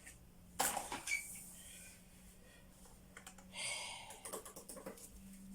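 Light clicking and tapping: one sharp click about half a second in, then a quick run of small clicks with a short rustle near the end, over a faint steady hum.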